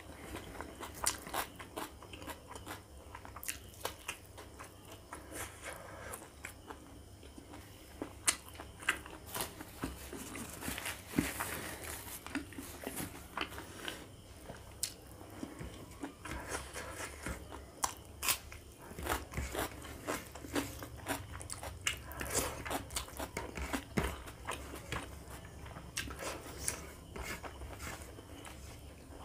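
Close-miked chewing and wet mouth sounds of someone eating rice and pork curry by hand, with irregular sharp smacks and clicks.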